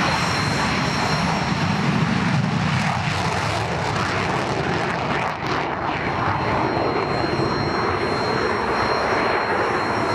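Engine noise of a Sukhoi Su-27 twin-engine jet fighter flying its display, a loud steady rush of sound. A lower rumble underneath sinks and fades about three seconds in.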